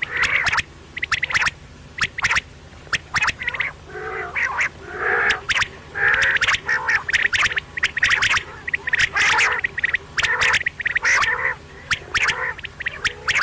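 Quail calling over and over in quick runs of short, harsh notes, with sharp clicks between them and no pause.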